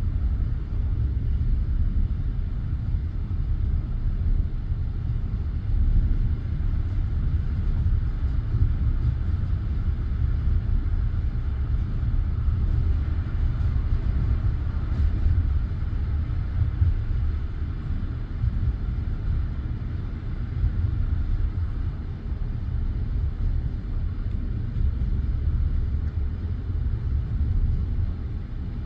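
Steady low rumble of a passenger train carriage, without distinct wheel clacks.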